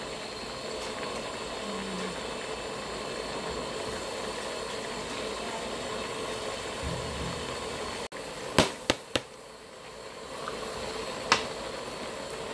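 Squid and vegetables frying in a steel wok, a steady sizzling hiss. Past the middle the sizzle breaks off for an instant and comes back quieter, with three quick sharp knocks and one more about two seconds later.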